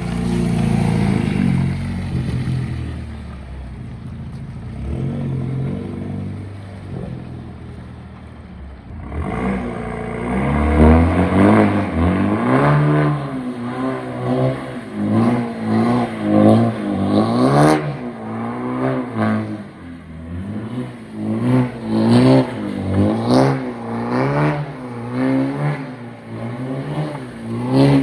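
BMW car engine running steadily, then from about nine seconds in revving up and down over and over, about once a second, as the car is driven in slides on a wet surface.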